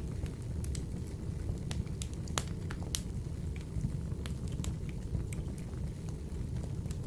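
Wood fire burning in a wood-burning stove: a steady low rumble of the flames with irregular sharp crackles and pops from the logs, two of the loudest about two and a half and three seconds in.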